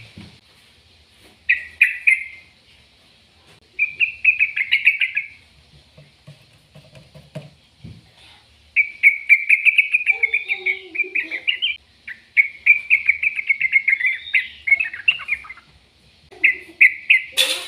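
A small bird chirping in quick runs of rapidly repeated high notes, five bouts of one to three seconds each with short pauses between them.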